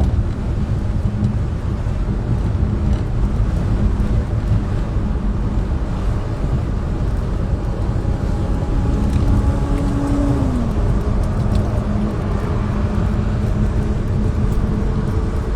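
Car cabin noise while driving: a steady low road and engine rumble with a faint hum, and a brief tone that drops in pitch about ten seconds in.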